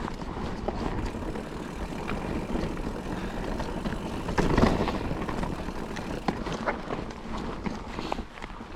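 Mountain bike ridden over a dry, loose trail: tyre noise on the dirt and gravel with the bike rattling over bumps, and a louder knock about four and a half seconds in.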